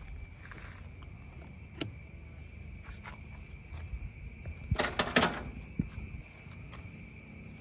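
Scattered light clicks and a short burst of sharp clattering about five seconds in, from metal parts and tools being handled during outboard engine work, over a steady low rumble and a faint high whine.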